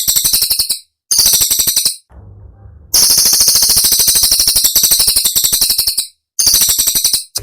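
Cililin song: very rapid, high-pitched, rattling trills (the sharp 'tembakan' bursts of bird-keeping talk), delivered in phrases a second or a few seconds long with brief pauses between, the longest pause about two seconds in.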